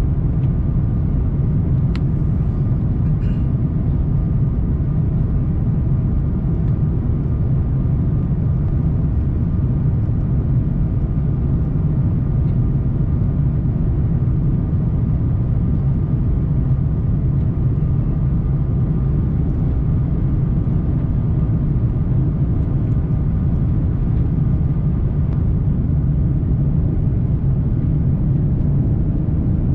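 Steady, even rumble of airflow and engines heard inside the cabin of an Airbus A340-300 in flight, with a faint steady whine over it and one small click about two seconds in.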